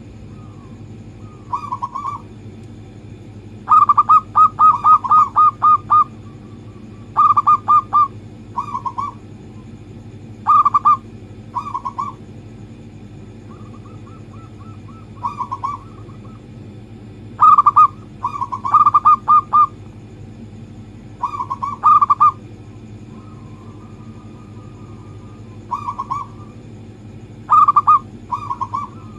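Zebra dove (perkutut) cooing: phrases of quick, rapid coo notes repeated every second or two, over a steady low hum.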